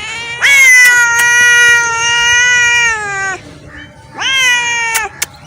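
A street cat yowling in anger: one long drawn-out call of about three seconds that sags in pitch at its end, then a shorter one near the end, the threatening yowl of a cat squaring up to another cat.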